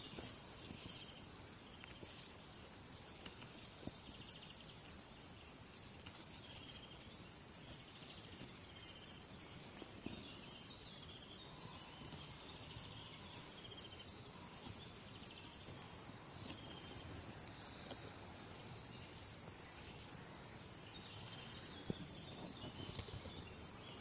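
Faint wild birdsong: many short high chirps and trills from small birds over a steady quiet background hiss, with a few soft knocks from handling the bush.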